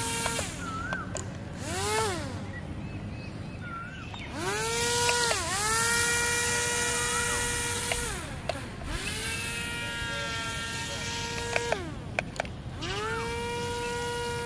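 Small DC motors of a soda-can RC boat whining as they are switched on and off by remote: each time the whine rises quickly to a steady high pitch, holds for a few seconds, then winds down. There are several runs, and one dips in speed briefly in the middle. A few sharp clicks come near the end.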